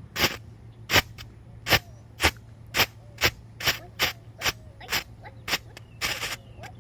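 A consumer firework going off as a string of sharp pops, about two a second, with a short hissing burst about six seconds in.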